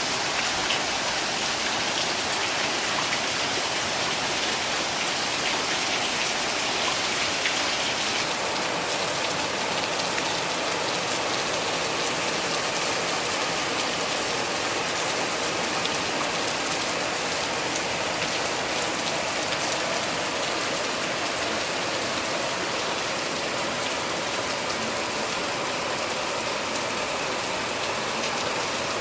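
Steady rain falling, a continuous even hiss with a scattered patter of drops, its brighter part easing slightly about eight seconds in.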